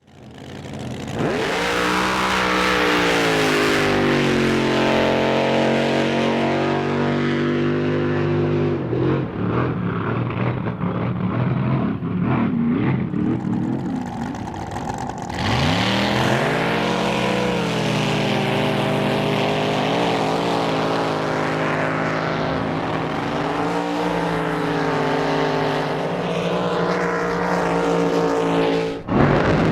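Drag boat racing engines at full throttle: the engine note climbs sharply about a second in and holds high, turns rough and unsteady for a few seconds, then climbs again about halfway through and holds until a brief sudden drop near the end.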